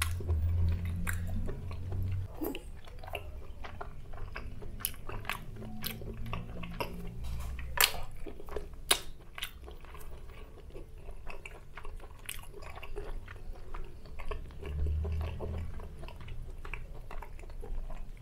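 Close-miked chewing of sauce-glazed grilled chicken skewers, with frequent short mouth clicks. Two louder clicks come about eight and nine seconds in.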